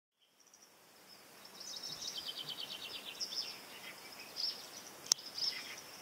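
Small birds chirping, with a fast trill of repeated short notes about two seconds in, fading in from silence at the start; a single sharp click about five seconds in.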